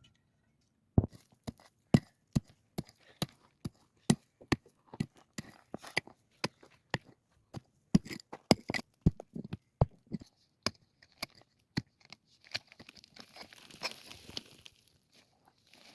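A hand tool striking wood in a quick, irregular series of sharp knocks, about two or three a second, then a few seconds of scraping, rustling noise near the end.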